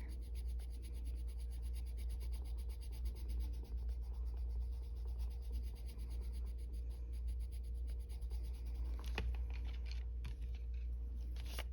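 Colored pencil rubbing on paper in soft scratching strokes, blending layered colors, over a steady low hum.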